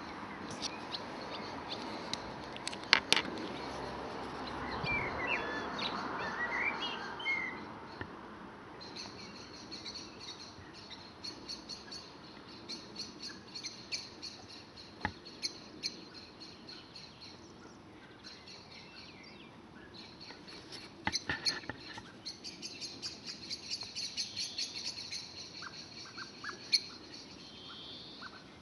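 Small birds chirping and twittering in quick repeated high trills, with a few sharp clicks, the loudest about three seconds in.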